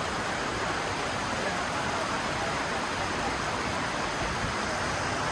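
Steady rush of falling water from Bridal Veil Falls, a 55 m plunge waterfall.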